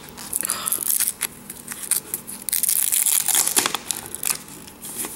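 A food package being torn open slowly and its wrapping crinkled and crackled in the hands.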